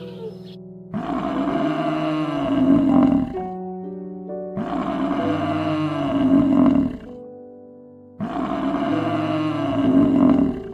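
A big cat roaring three times, three near-identical roars of about two and a half seconds each, over background music.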